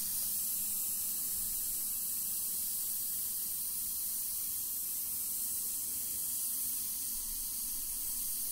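Steady, unbroken hiss of steam from a miniature live-steam locomotive, with a faint low hum beneath it.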